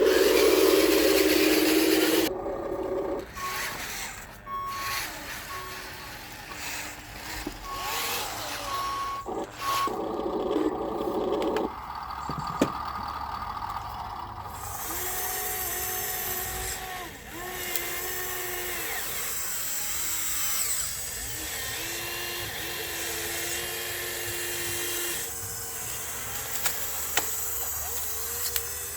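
Small electric drive motors of a radio-controlled model bulldozer whining in bursts as they start, stop and change speed. For a few seconds in the first third an evenly pulsed high beep sounds over them.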